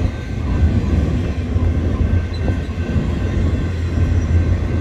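Double-stack intermodal freight cars rolling past on the rails, a steady, deep rumble of steel wheels on track.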